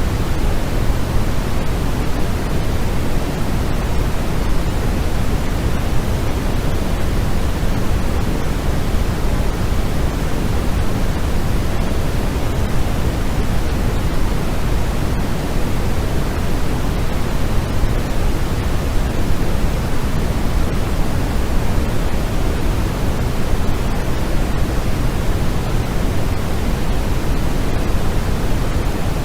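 Continuous white noise for sleep: a steady, unchanging hiss, fuller in the low end than in the highs.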